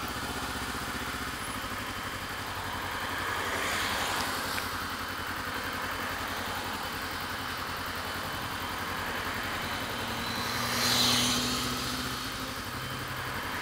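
Kawasaki Ninja 250 with an aftermarket Pipewerx exhaust, baffle in, idling steadily while waiting in traffic. Passing vehicles swell by about four seconds in and again, louder, near the end.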